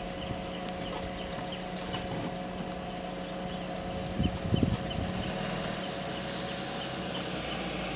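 Vehicle engine idling steadily, with faint high chirps scattered throughout and one brief louder low sound about four and a half seconds in.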